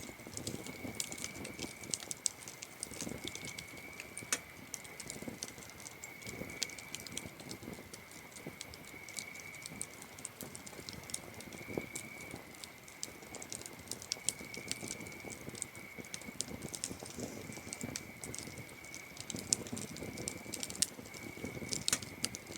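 Campfire crackling, with sharp pops of burning wood, over crickets singing a steady high trill that swells and fades in pulses.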